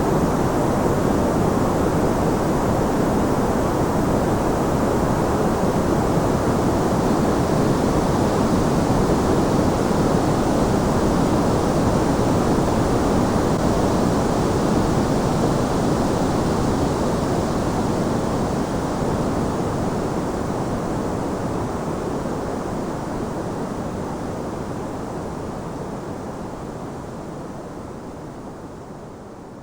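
Steady white noise, an even hiss weighted toward the low and middle range, fading out slowly over the second half.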